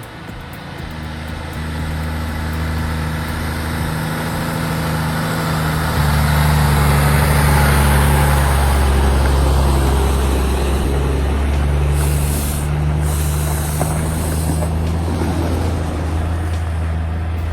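Loaded logging truck's diesel engine running under load with a steady low drone and a rushing noise over it. It grows louder over the first few seconds and is strongest from about six seconds in.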